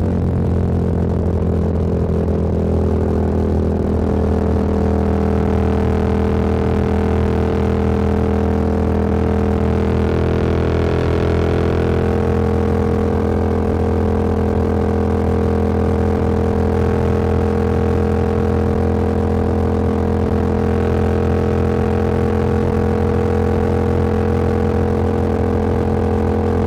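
Motorcycle engine running steadily while riding at an even speed, its note holding a constant pitch.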